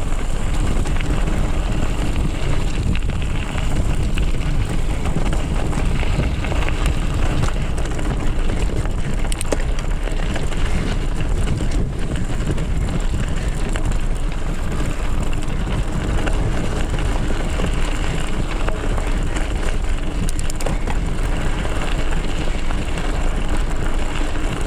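Mountain bike riding fast downhill on a dirt trail: a steady rush of wind on the microphone over the rumble of the tyres, with occasional light rattles.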